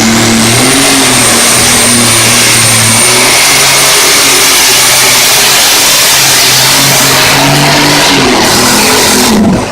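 Competition pulling tractor's engine running flat out under load as it drags the weight sled, very loud and steady, with a high whine held above it. Near the end the engine note drops and the sound cuts off sharply as the throttle comes off.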